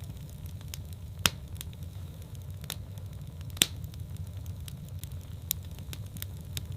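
Wood fire burning in a fireplace: a steady low rumble of the flames with scattered crackles and pops, two sharper pops standing out about a second in and halfway through.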